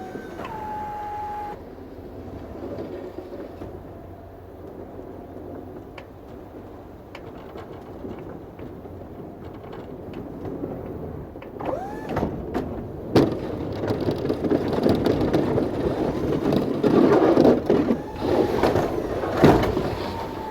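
Snow-removal machinery running, with a pitch that glides up and down and gets louder and rougher in the second half, and a couple of sharp knocks.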